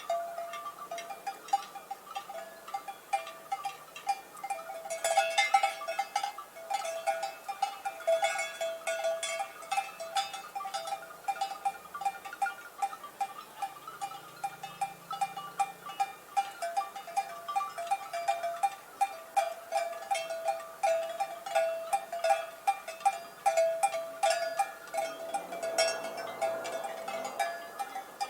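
Cowbells on grazing cows clanking continually and irregularly, a mellow metallic ringing with several strikes each second.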